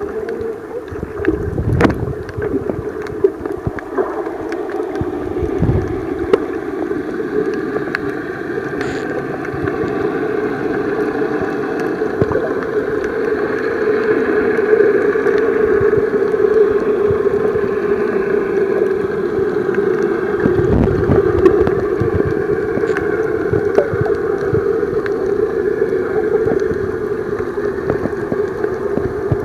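Muffled underwater sound picked up by a camera held under the sea while snorkelling: a steady drone with gurgling and scattered clicks, a little louder in the second half.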